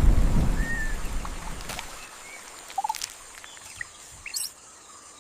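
A low rumbling noise fades out over the first two seconds, while small high chirps and short whistles sound over it. After that come scattered clicks and squeaks, in forest ambience with small animal calls.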